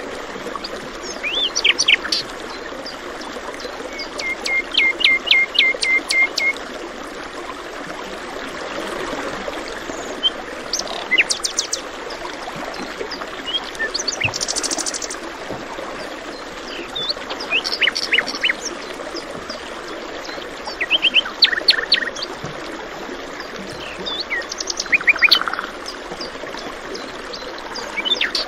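Songbirds singing short phrases of quick chirps every few seconds over the steady rush of a flowing stream.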